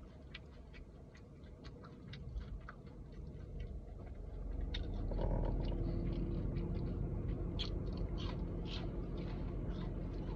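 Close-up chewing with frequent small wet mouth clicks. About halfway through, a steady low hum comes in and holds under the chewing.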